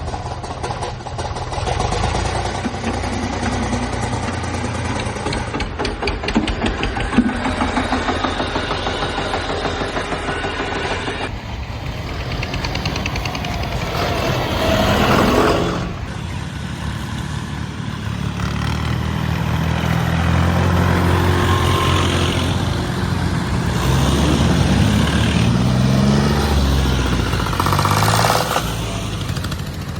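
Diesel tractor engines running hard, their pitch rising and falling as they rev in the second half, with abrupt changes in the sound at cuts about 11 and 16 seconds in.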